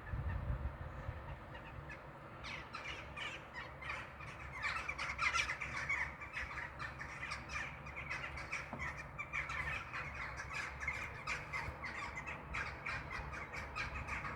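A flock of birds giving many overlapping harsh, crow-like calls, starting a couple of seconds in, over a steady low rumble.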